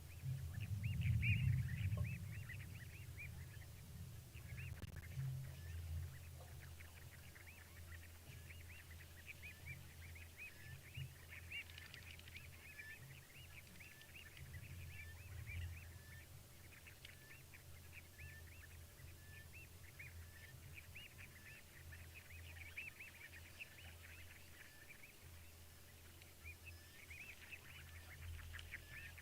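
A dense chorus of many short, high, repeated chirping calls from small animals, overlapping steadily. A low rumble rises about a second in and fades over the next few seconds.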